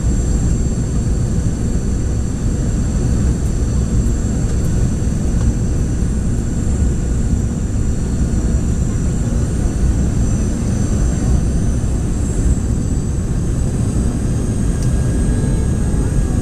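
Cabin noise inside a Boeing 717 airliner: a steady low rumble with several thin, high, steady whines from its two rear-mounted Rolls-Royce BR715 turbofan engines.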